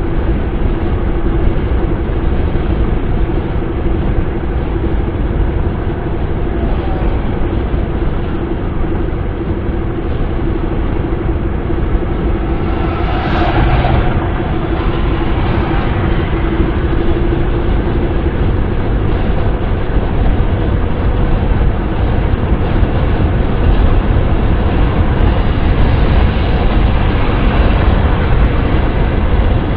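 Steady wind and road noise of a moving car: a low rumble with hiss over it and a faint steady hum that fades out about two-thirds of the way through. A brief louder swish comes about halfway through.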